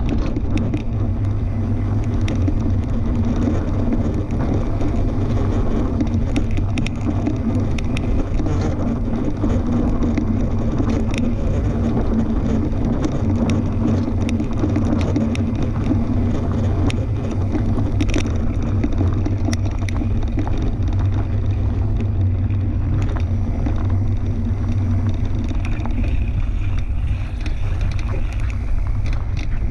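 Fat-tyre tandem bike riding along a dirt trail: a steady low rumble from the tyres and the ride, with scattered small clicks and rattles.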